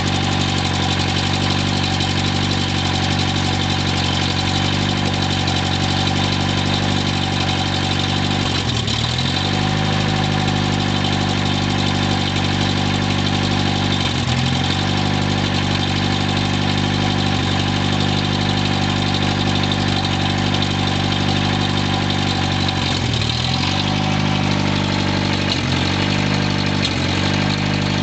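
Turbocharged Honda D16 engine running on its first start-up with no exhaust fitted, idling steadily. Its speed sags briefly and recovers about five times, twice close together near the end.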